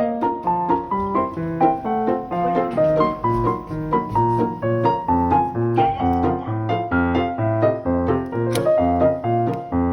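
Piano music, a steady flowing run of notes, with bass notes joining about three seconds in.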